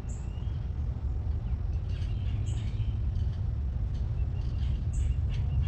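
Wind buffeting the microphone outdoors, a steady low rumble, with faint short high chirps coming back about every two and a half seconds.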